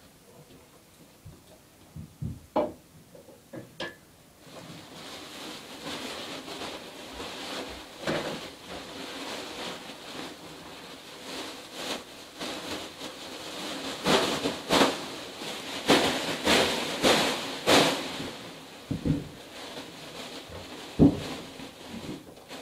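A string of knocks and clatters over a steady hiss that starts about four seconds in, with the knocks coming thickest a little past the middle.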